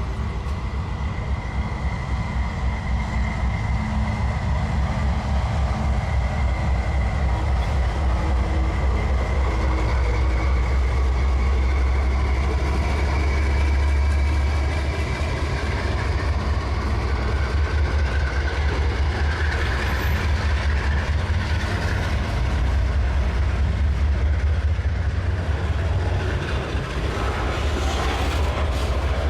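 Freight train rolling past: a steady low rumble, with the wheels of the wagons clattering over the rails, and a faint high squeal of wheels during the first half.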